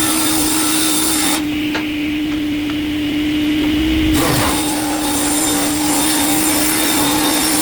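Wood-processing machine running with a steady hum. A harsh, hissing grinding noise cuts out sharply about a second and a half in and comes back about four seconds in.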